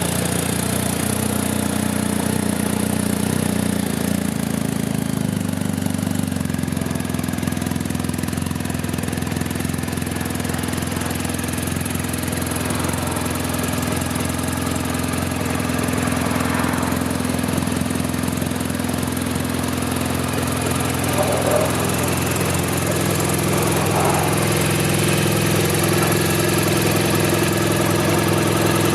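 BMW R1250 GS's 1254 cc boxer twin engine idling steadily, its idle note dropping slightly about four seconds in.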